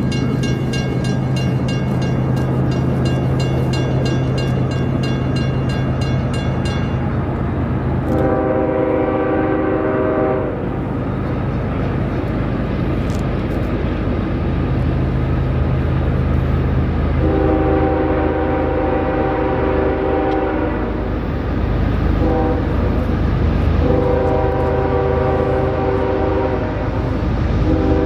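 Diesel freight locomotive's multi-chime air horn sounding the grade-crossing signal over the steady drone of its engine: two long blasts, a short one, then a long one.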